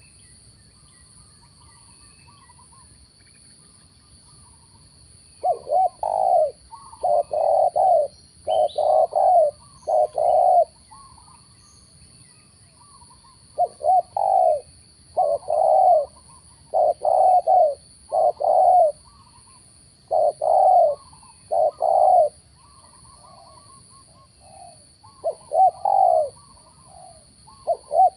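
Spotted dove (tekukur) cooing in a run of repeated phrases, each a few short coos, starting about five seconds in with short pauses between runs. Fainter bird chirps are heard in the gaps.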